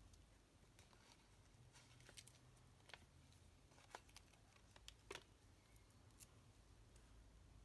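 Near silence with scattered faint clicks and taps of paper and card being handled during card making.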